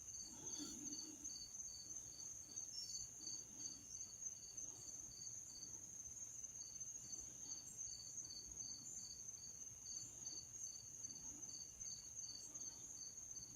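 Insects calling faintly: one steady high-pitched trill, and another high chirp repeating about three times a second that pauses briefly just after the middle.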